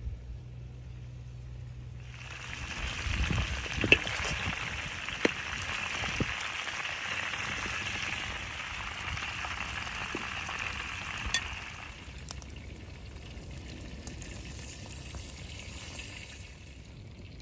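Chicken pieces frying in hot oil in a wide steel pan, a loud sizzle that starts about two seconds in, with a few sharp clicks. The sizzle drops to a quieter level about two-thirds of the way through.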